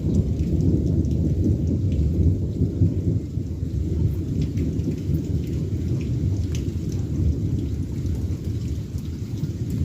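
Rolling thunder rumbling low and continuously, easing slightly after about three seconds, with rain falling and pattering.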